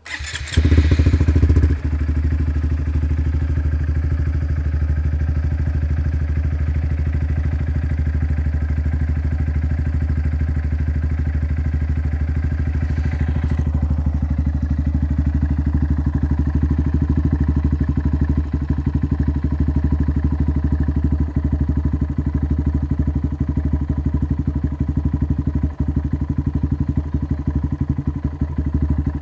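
2019 Honda Grom's 125 cc single-cylinder four-stroke engine cold-started through a Yoshimura RS-2 Race Mini Works exhaust. It catches at once, is loudest for the first second or two, then settles into a steady cold idle.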